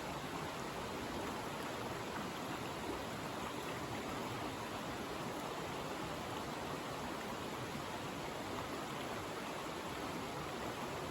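Steady rush of a mountain stream's running water, an even noise with no break or change.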